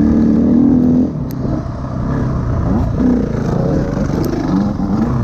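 Dirt bike engine heard from the rider's chest camera while riding a motocross track: held steady on the throttle for about a second, then easing off, and rising and falling several times as the throttle is worked.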